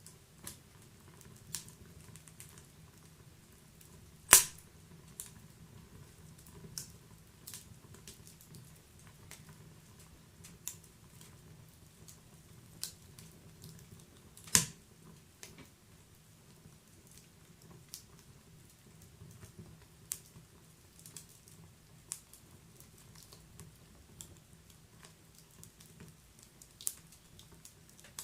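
Wood fire in a fireplace crackling: sharp irregular pops and snaps from burning logs, two of them much louder (about four seconds in and near the middle), over a soft low rumble of the flames.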